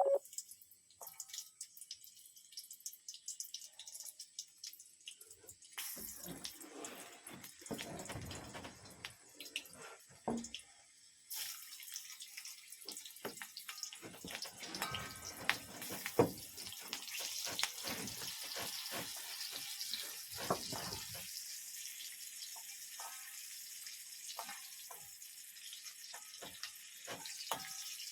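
Water splashing and dripping, with scattered small knocks and clicks; from about eleven seconds in a steady hiss of running or falling water joins it.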